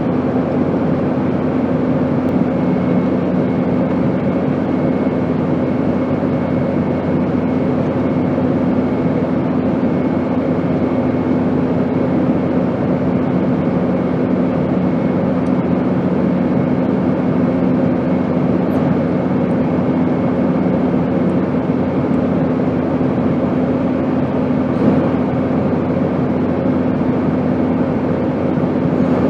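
Airplane noise: a steady, even rushing drone with a low hum and a faint high whine.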